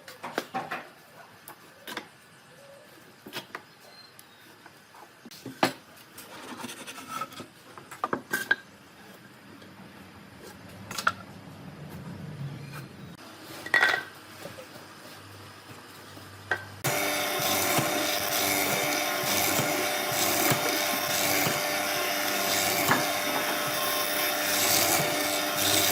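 Wood pieces being handled with scattered knocks and taps, then about two-thirds of the way through a power tool starts and runs steadily on the wood, much louder than the knocks.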